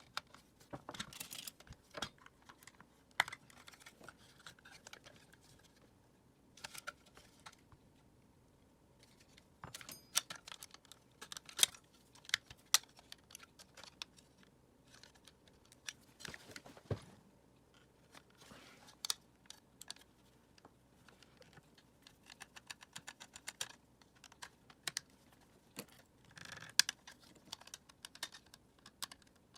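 Irregular clicks, taps and light rattles of a Dyson vacuum cleaner's plastic parts being handled and worked apart by hand. They come in short clusters with pauses between.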